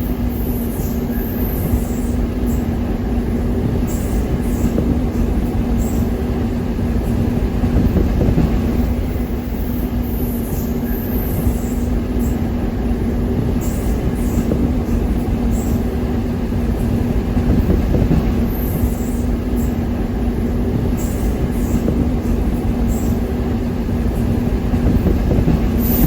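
A train running along the track, heard on board: a steady rumble of wheels on rail with a constant droning hum.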